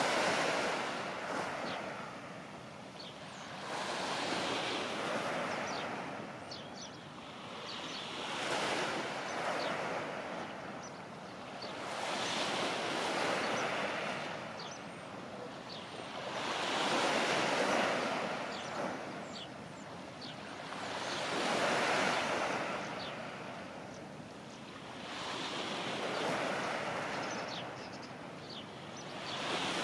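Small waves breaking and washing on the shore, in slow swells about every four seconds, with some wind noise.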